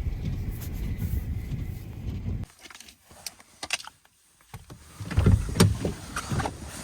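A car's running rumble heard inside the cabin, which stops abruptly about two and a half seconds in as the engine is switched off. A few light clicks follow, then several louder knocks and a rustle near the end, like a door being opened and someone moving.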